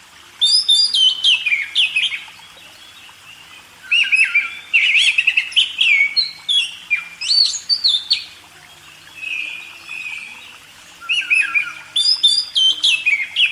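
Oriental magpie-robin (kacer) singing: several bursts of rapid, varied whistled phrases with short pauses between them, one softer passage in the middle.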